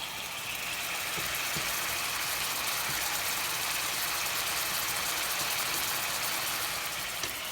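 Food sizzling in a hot frying pan, a steady hiss that swells slightly about a second in and eases near the end.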